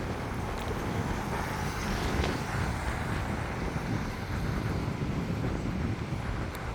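Steady rumble of road and engine noise from a moving vehicle.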